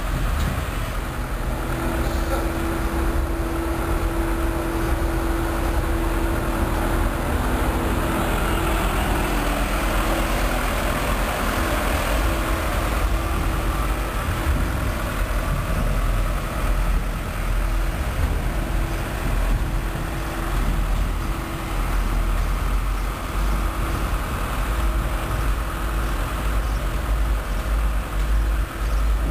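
Diesel-hauled freight train passing: a steady low rumble of the locomotive engines with the rushing noise of rolling wheels on the rails.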